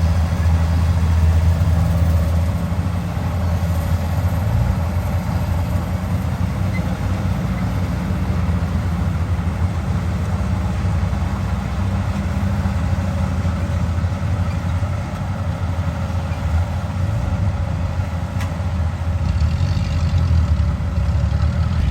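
Kubota combine harvester's diesel engine running steadily with a deep, even drone, along with the clatter of its harvesting machinery.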